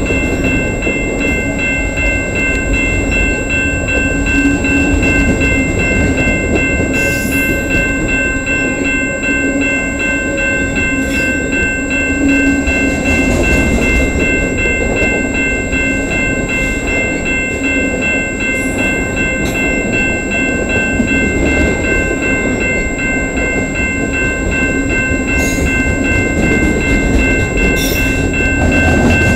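CN freight train's cars rolling past at speed: a steady, loud rolling noise with scattered brief high clicks and a few steady high-pitched tones held throughout.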